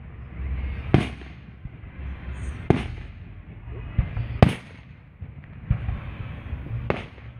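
Aerial firework shells bursting: a series of sharp booms, roughly one every second or two, the loudest a little past the middle, over a low rumble.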